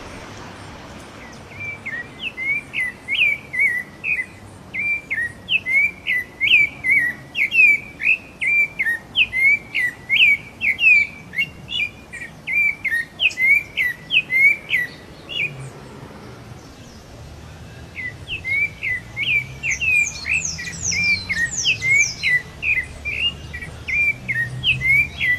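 Songbird singing a fast series of short, sharp chirping notes, about three a second, stopping for a couple of seconds midway and then resuming. Higher, falling notes join in for a few seconds after the pause.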